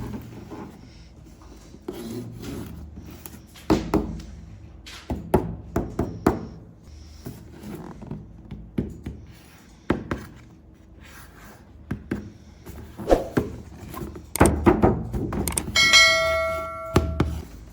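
Hard objects being handled: irregular clicks and knocks, and near the end a brief bell-like ring lasting about a second.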